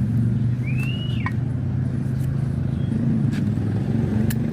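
Motorcycle engine running at a steady idle, with a brief high chirp about a second in.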